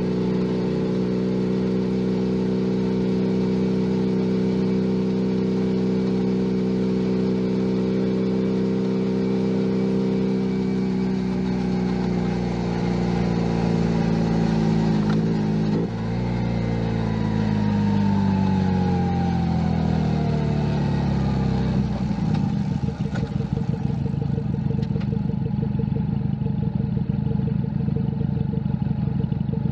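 Junak M11 Cafe's 125 cc single-cylinder engine, heard from the rider's seat. It holds steady revs for the first third, then slows with a falling pitch as the bike eases off, with a brief break about halfway through. It settles into a low, uneven idle-like beat for the last several seconds.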